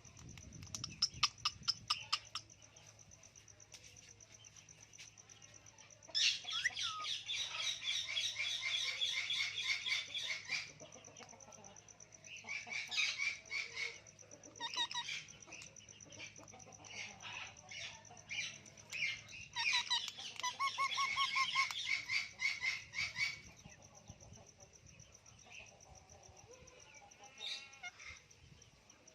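Parrots calling in a tree: several bursts of rapid, repeated chattering calls, the longest lasting about four seconds, over a steady high-pitched buzz.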